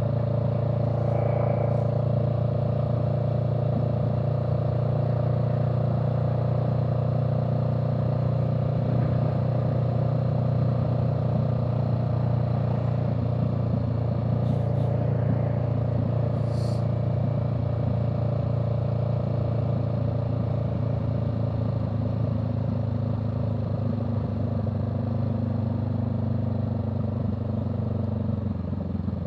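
A vehicle engine running at a steady pace under way, with a few faint clicks; near the end the engine note drops slightly.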